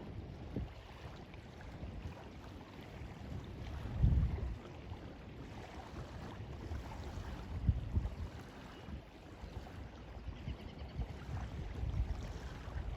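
Lake water lapping against the shore under a steady wash of wind, with a few low gusts buffeting the microphone, the strongest about four seconds in.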